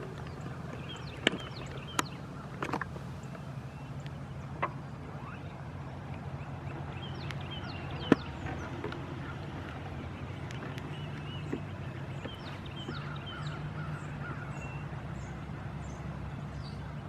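Power wheelchair motor humming steadily as it rolls, with a few sharp clicks and knocks in the first half. Birds chirp and call repeatedly through the second half.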